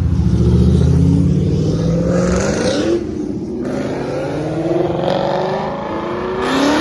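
A car engine accelerating hard through the gears. Its pitch climbs, drops sharply at a gear change about three seconds in, climbs again, and shifts once more near the end.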